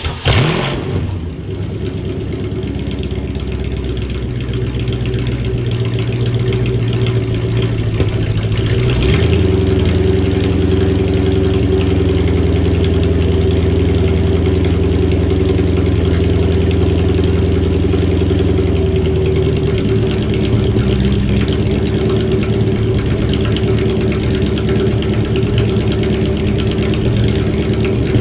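Car engine idling just after a cold start. Its note shifts about 9 seconds in and again about 20 seconds in, as the cold idle settles.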